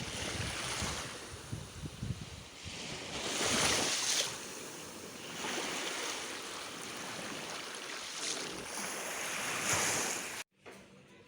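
Sea waves washing onto a beach, the surf swelling and easing several times, with wind rumbling on the microphone in the first few seconds. The sound cuts off suddenly near the end.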